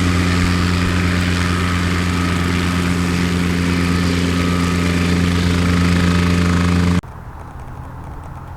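Aircraft engine running steadily, loud and close, with a constant pitch and no change in power. About seven seconds in it stops abruptly, leaving only quieter outdoor background noise.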